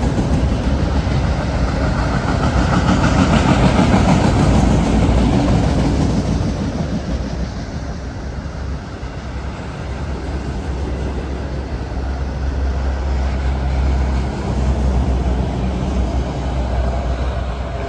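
Freight cars of a CSX manifest train rolling past, wheels clattering on the rails with a steady low rumble. Louder for the first several seconds, then easing a little.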